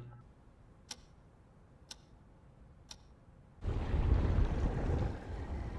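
Clock ticking three times, one tick a second, from the anime's soundtrack. About two-thirds of the way in, a sudden low rumbling noise comes in and carries on.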